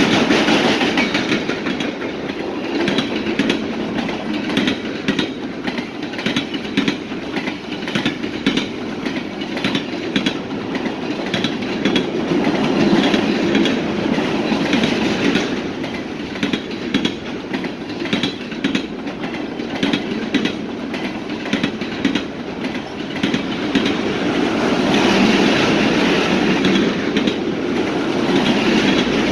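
Freight train cars rolling past, with a steady rumble of steel wheels on rail and a rapid run of wheel clicks over the rail joints.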